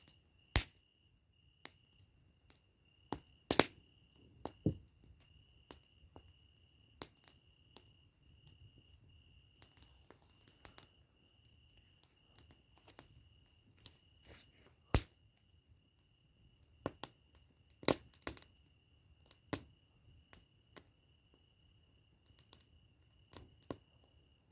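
Campfire burning, wood crackling with irregular sharp pops and snaps, a few much louder than the rest. A steady, softly pulsing high-pitched tone runs underneath.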